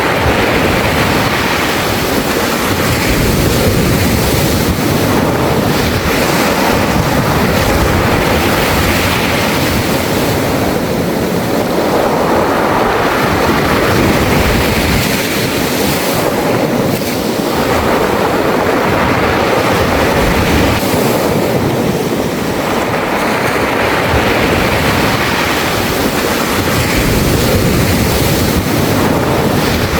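Sea waves washing up a beach of smooth round pebbles and drawing back, a continuous rush that swells and fades every few seconds.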